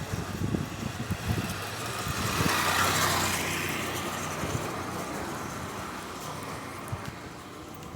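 A car passing by, its noise swelling to a peak about three seconds in and then slowly fading away.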